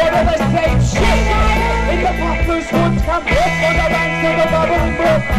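Live rock band playing, with bass, guitar and singing, in a loud full mix.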